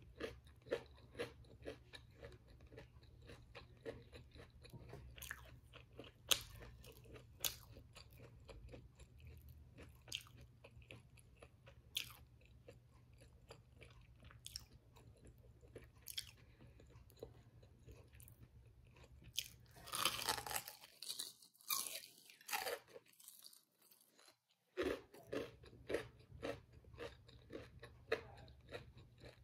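Close-miked chewing of crispy fried battered food (tempura and egg-coated fried zucchini), with many sharp crunches. There is a denser, louder stretch of crunching about twenty seconds in and a brief pause a little after.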